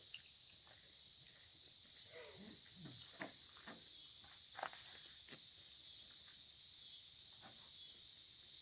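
Crickets chirping in a steady high-pitched chorus, with a few faint short taps and handling noises underneath.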